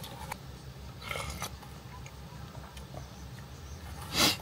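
Quiet eating sounds: a person chewing a mouthful of rice soaked in tea, with a few faint clicks and one short, loud, hissing sound near the end.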